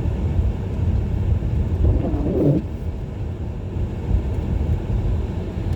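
Car cabin noise while driving: a steady low rumble of the engine and the tyres on fresh, unplowed snow.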